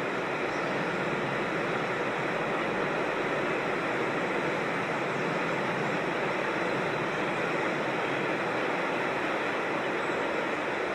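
Steady, even rush of creek water tumbling over small falls.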